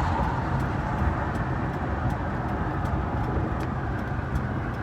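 Steady engine and road rumble of a truck driving, heard from inside the cab.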